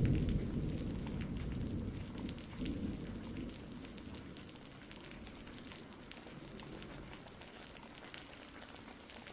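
Rain pattering steadily with fine drop ticks, while a low rumble of thunder dies away over the first few seconds.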